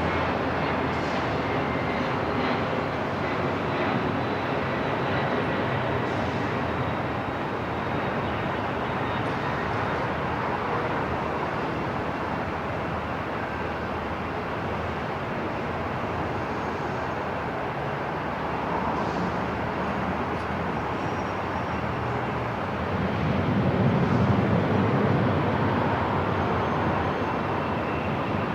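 Airport ambience: a steady, continuous rumble and hiss, swelling briefly in the low end near the end.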